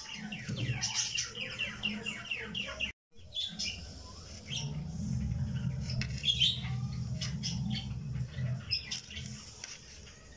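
Birds chirping, a quick run of repeated chirps in the first few seconds and scattered chirps after, with a brief dropout about three seconds in.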